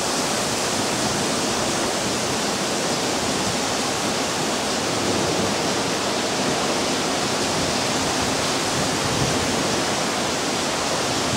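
Heavy rain pouring down in a thunderstorm: a steady, even hiss of the downpour.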